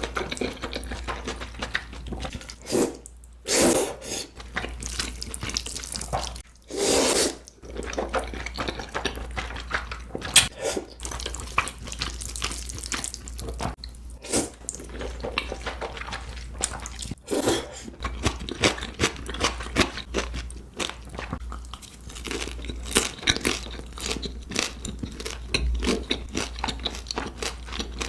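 A person eating jjajangmyeon noodles in black bean sauce close to the microphone: steady wet chewing and mouth clicks, with a few longer, louder wet slurps in the first seconds and crunching bites.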